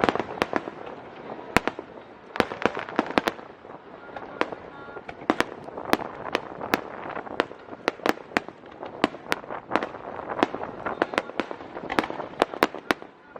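Aerial fireworks shells bursting in quick, uneven succession, many sharp bangs a second over continuous crackling.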